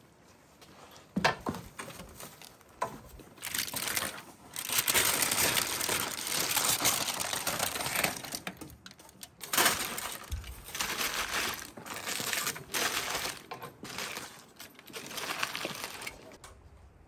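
Crackling, rustling handling noise in uneven bursts, with a few sharp knocks, the loudest about a second in and near the middle.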